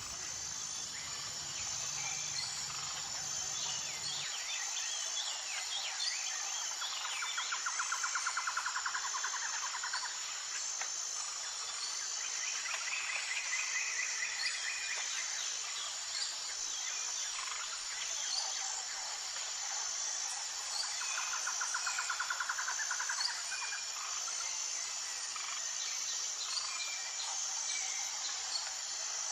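Tropical rainforest ambience: a steady, pulsing high-pitched insect chorus, with birds calling over it, including a rapid trill twice and a higher trill in between.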